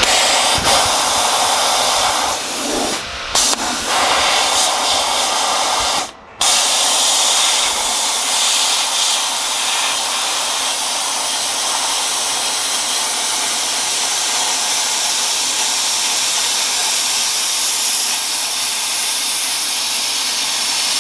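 Plasma cutter cutting through a truck's body mount: a loud, steady hiss of the arc and air. It breaks off briefly about three seconds in and again about six seconds in, then carries on.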